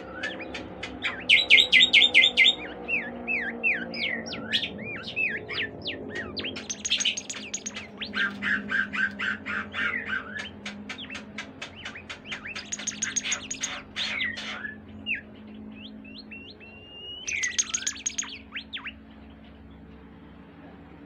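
Bimoli songbird singing loudly in varied phrases of fast trills, rapid runs of notes and down-slurred whistles, with short pauses between bursts. The song fades out near the end.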